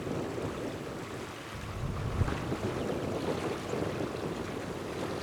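Low, steady rumble of a departing Boeing 777F's twin GE90 turbofans at a distance, mixed with wind buffeting the microphone.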